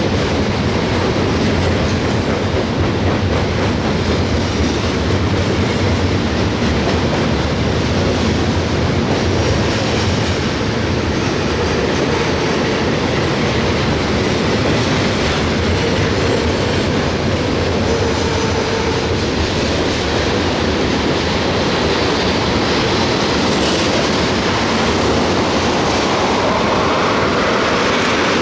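CSX freight train rolling past, with a steady, loud rumble and clatter of wheels on the rails.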